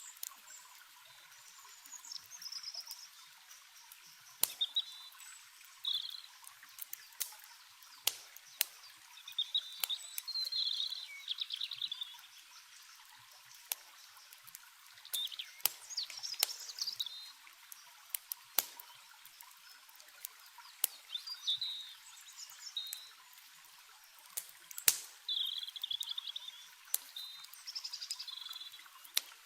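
Campfire crackling with frequent sharp pops, while songbirds chirp and sing in short phrases over a steady hiss of running water.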